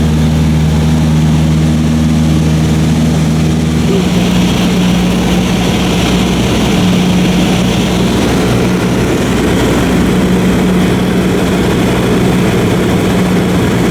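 Cessna 152's four-cylinder piston engine and two-blade propeller running steadily in flight, heard from inside the cabin. About four seconds in the engine note changes abruptly to a different steady pitch, a change of power setting.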